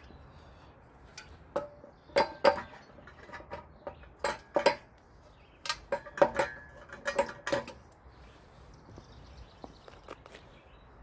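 Metal pipe sections clanking and clinking together as they are handled and fitted on the ground, a run of sharp knocks with brief ringing in the first two-thirds, then only a few light taps.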